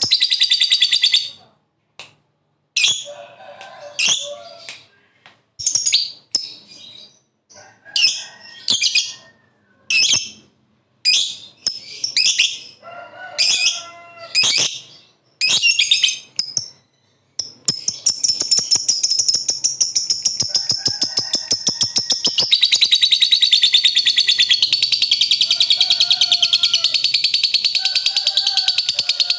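Lovebird singing: a string of short, broken high chirps, then, about halfway through, a long unbroken rapid-fire chattering trill, the prized 'ngekek panjang' long trill of a fighter lovebird.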